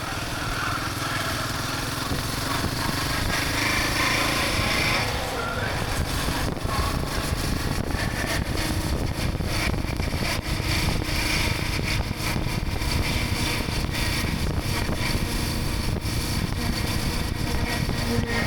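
Motorcycle riding along the road: a steady engine drone under heavy wind rush on the microphone.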